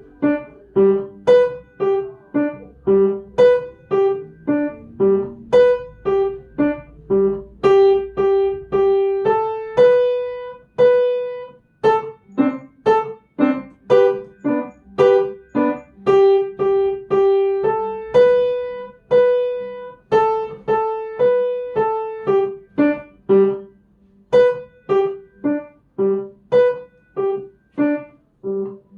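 Piano playing a simple piece of short, detached notes at about two a second, with a few longer held notes and a light lower-hand accompaniment.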